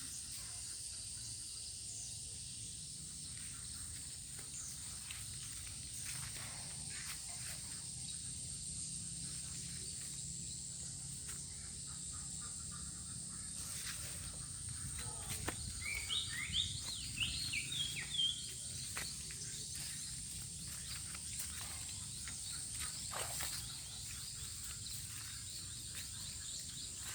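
Insects droning steadily at a high pitch over a low, steady rushing noise, with a bird giving a quick run of rising chirps about sixteen seconds in.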